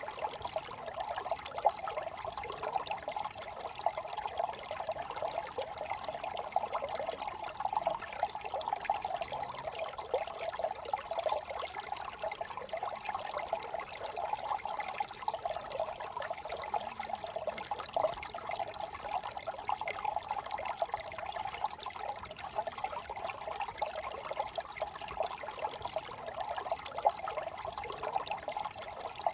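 Small brook trickling and burbling over stones, a steady babbling with dense small splashes.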